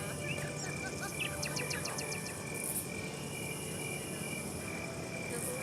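Insects chirping in the background, with a steady high-pitched trill and a brief run of rapid ticks about a second and a half in.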